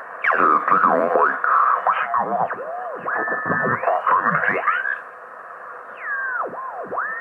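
Grundig Satellit 2100 shortwave receiver being tuned across amateur single-sideband signals with an external BFO. Garbled, pitch-shifted sideband voices and whistles come through over a thin, hissy radio sound. Near the end, a whistle sweeps down and back up as the tuning passes through a signal.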